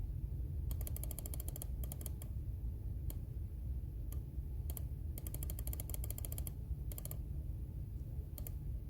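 Typing on a computer keyboard in short bursts of quick key clicks with pauses between them, over a steady low background hum.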